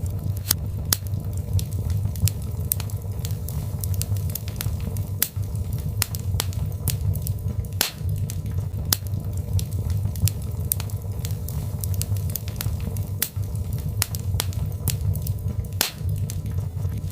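Birch log fire crackling, with frequent irregular sharp pops and snaps over a steady low rumble.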